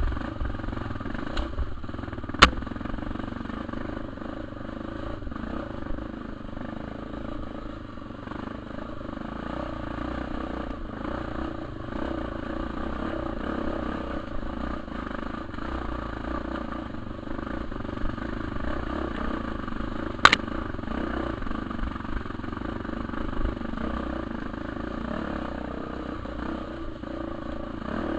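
Trail motorcycle engine running steadily while riding, with two sharp knocks, one about two seconds in and one near twenty seconds.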